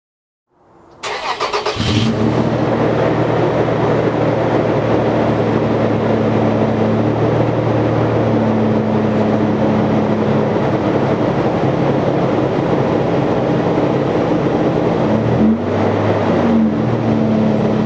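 Toyota Tacoma engine with an aFe cold air intake and Borla stainless exhaust cranking on the starter, catching after about a second, then idling steadily. A couple of short revs come near the end.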